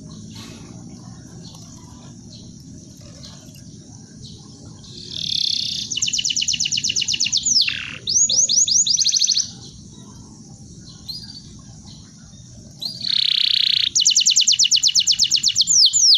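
Domestic canary singing: two bouts of song, each opening with a buzzy note, then a fast trill of rapidly repeated high notes ending in downward-sweeping notes, with a pause of a few seconds between the bouts. A faint low background noise lies under it.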